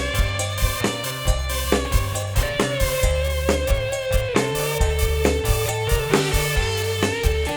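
Campursari band playing an instrumental passage with no singing: a steady drum-kit beat of bass drum and snare, bass, plucked guitar, and a long held melody line that bends slightly.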